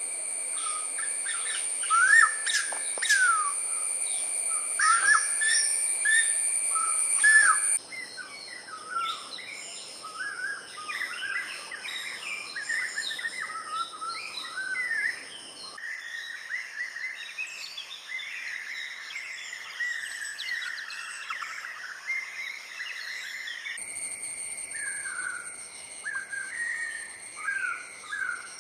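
Tropical forest ambience: many birds chirping and calling over a steady, high-pitched insect drone. The mix changes abruptly about every eight seconds, as separate recordings are cut together.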